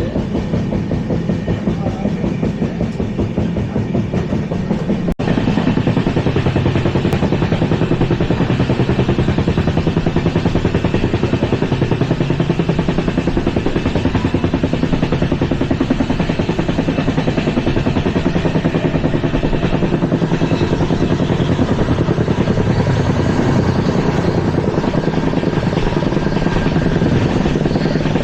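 Running noise of a fast-moving LHB passenger coach heard from on board: a steady rumble of wheels on rail with a fast, even clatter. It breaks off sharply about five seconds in, then goes on a little louder.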